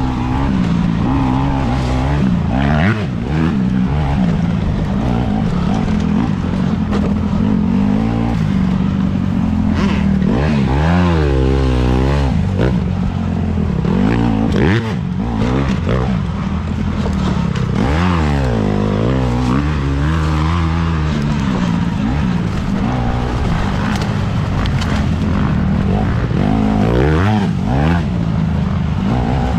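Petrol dirt bike engines running and revving throughout, their pitch repeatedly sweeping up and down over a steady noise.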